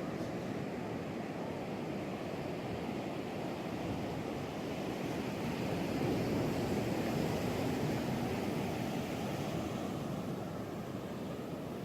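Ocean surf washing in steadily, swelling louder about halfway through as a wave breaks, with some wind on the microphone.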